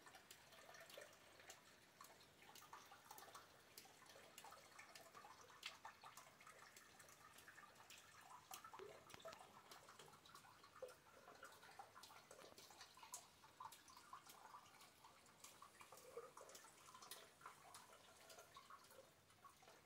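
Faint rain during a thunderstorm: scattered, irregular drops dripping and ticking on hard surfaces over a light hiss of rainfall.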